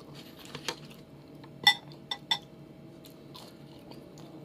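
Close-up chewing and mouth smacks of a man eating fried dried salted fish (tuyo) with rice, with a few sharp clicks, the loudest about a second and a half in.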